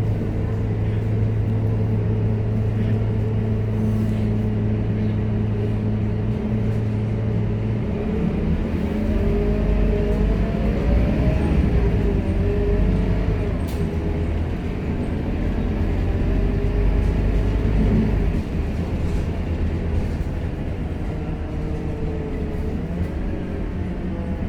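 Scania K230UB city bus heard from inside the cabin, its engine holding a steady idle for about eight seconds before the bus pulls away. The engine then works harder with a deeper rumble, and a whine rises and falls as it gathers speed. The engine eases off about eighteen seconds in.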